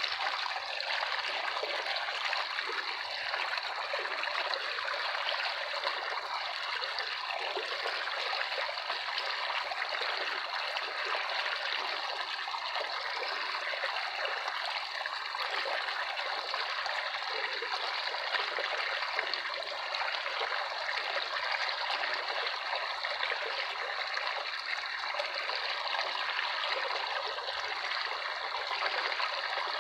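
Running water of a stream or brook, a steady trickling and babbling flow that does not change.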